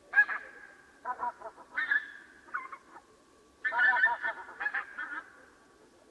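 Swans calling: a run of short, nasal honking calls, several overlapping in a busier cluster about four seconds in.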